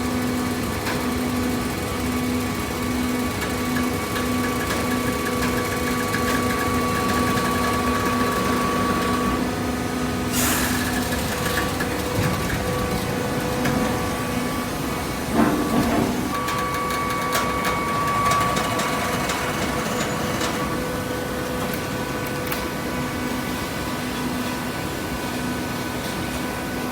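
Hydraulic baler running, its motor and pump giving a steady hum with a pulsing tone. A short hiss comes about ten seconds in and a couple of clunks around fifteen to sixteen seconds in.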